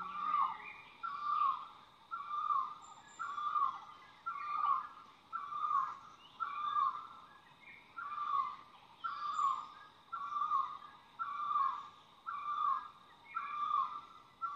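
A bird calling over and over, a short falling note repeated at an even pace of about three calls every two seconds, with faint higher chirps behind it: a forest ambience track.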